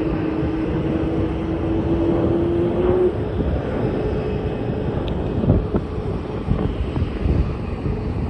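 Jet airliner engines, a steady rumble with a whine that rises slightly and drops away about three seconds in.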